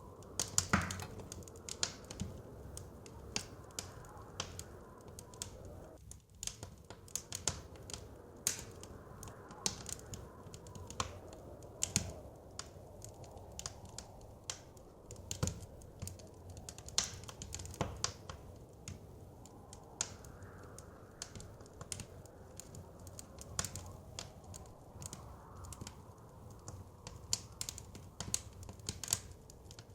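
Wood fire crackling, with sharp pops coming at irregular intervals, over a soft rushing of blizzard wind that swells and fades slowly.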